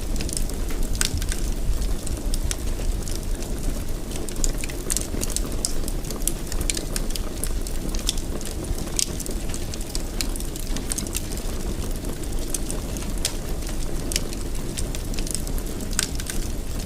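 Wood fire burning in a fireplace: a steady low rumble of the flames with frequent irregular pops and crackles.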